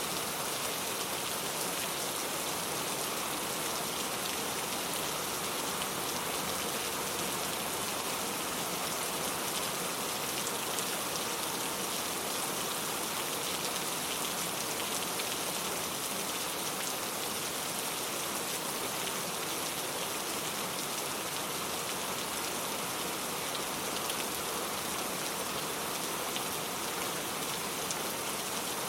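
Steady rain falling, an even hiss of drops on surfaces with no breaks or changes.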